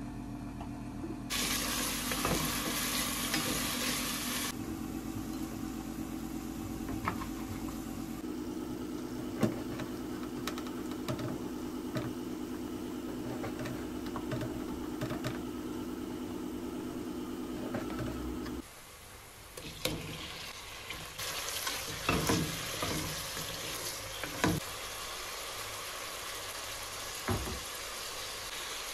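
Kitchen cooking sounds: diced onions sizzling in oil in a pot on a gas stove and a spoon stirring them, then knife taps on a cutting board as meat is cut, over a steady low hum that stops about two-thirds of the way through. Near the end the sizzling is back, with scattered clicks and taps as spices are shaken into the pot.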